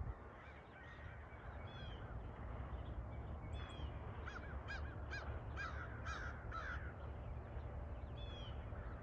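A bird calling in a string of short calls: one, then a quick run of about eight in the middle, then one more near the end. A steady low rumble runs underneath.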